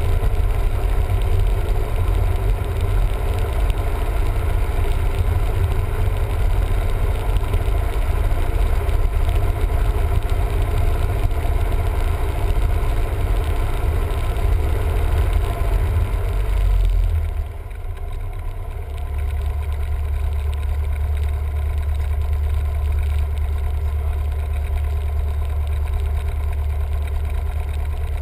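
Cessna 172M's four-cylinder Lycoming engine and propeller running steadily. About two-thirds of the way through, the sound drops to a lower, duller drone, as power is reduced.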